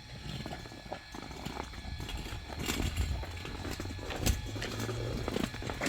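Irregular knocks and clatter over a low rumble, with one sharper knock about four seconds in.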